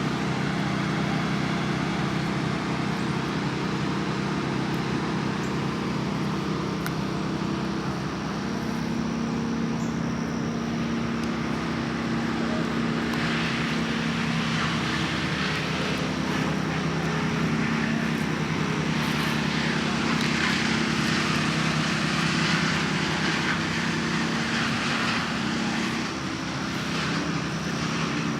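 A steady engine-like drone with a low hum that holds level throughout, under a faint hiss.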